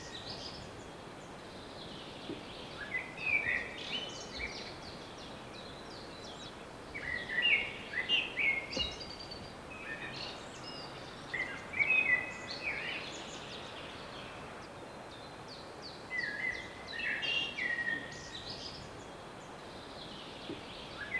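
A songbird singing short phrases of quick chirping notes, repeated about every four to five seconds, over a steady faint outdoor hiss.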